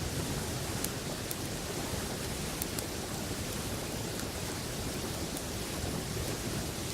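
Steady rushing of a flowing river, with a few sharp crackles from a wood campfire.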